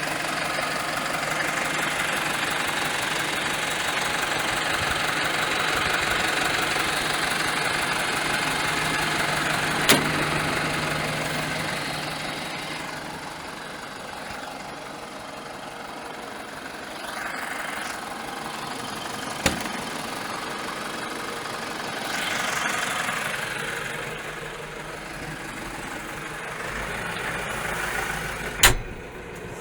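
Steyr 4075 Kompakt tractor's four-cylinder Fiat Powertrain diesel engine running, louder at first and easing down about halfway through. Three sharp knocks stand out along the way.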